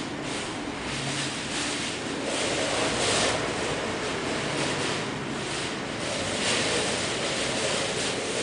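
Typhoon wind gusting, a steady rushing noise that surges and eases every second or so, loudest about three seconds in and again past six seconds.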